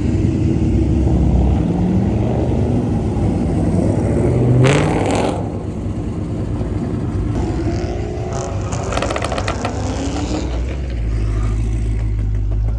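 Car engines running and revving, with one engine rising in pitch to a loud peak about four to five seconds in, then more engine sound as cars pull away.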